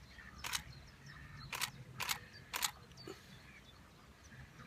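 Canon 5D Mark III DSLR shutter firing four times: one shot about half a second in, then three more in quick succession between about one and a half and two and a half seconds in.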